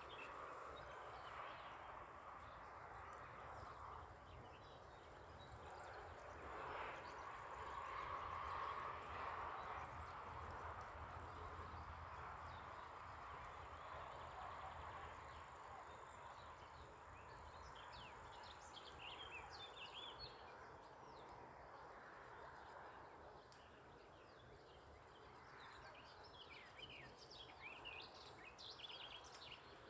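Faint riverside ambience: small birds chirping in scattered runs of short, high calls, mostly about two-thirds of the way in and near the end, over a quiet steady background hiss.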